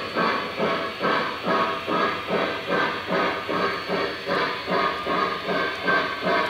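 Lionel Lionmaster Pennsylvania T1 model steam locomotive's Legacy sound system playing steam chuffing, an even beat of about two chuffs a second.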